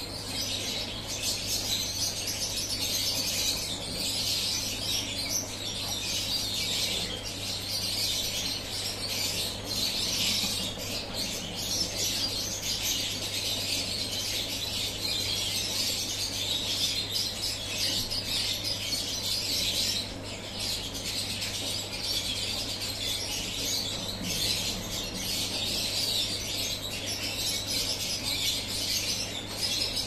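A dense chorus of many small birds chirping continuously, over a steady low hum.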